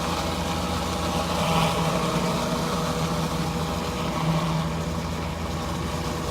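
Gas pressure washer engine running steadily, with the even hiss of high-pressure water spraying onto concrete through a surface cleaner.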